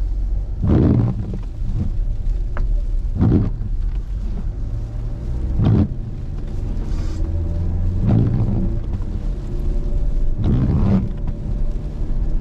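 Car cabin road and engine rumble while driving, with a brief swishing sound repeating about every two and a half seconds.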